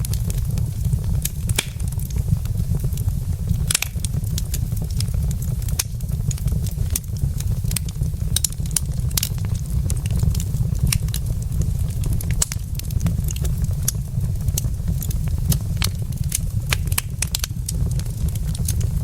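Wood logs burning in a fireplace, crackling and popping irregularly many times over a steady low rumble.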